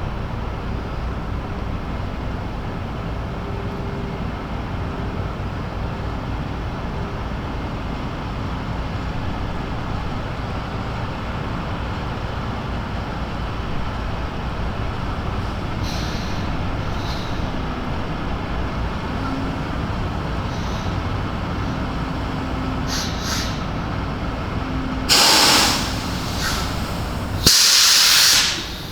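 Semi truck's diesel engine running steadily, then near the end two loud bursts of air hissing from the truck's air brakes.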